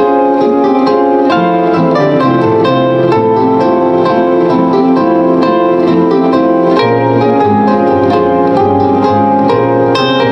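Live solo instrumental music: rapidly repeated plucked notes ringing over held chords and a low bass line that moves to new notes twice.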